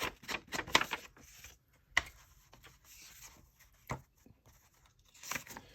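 Sheets of printed paper being handled and laid down on a desk: soft rustling with a few short sharp taps, the loudest about two seconds in and another near four seconds.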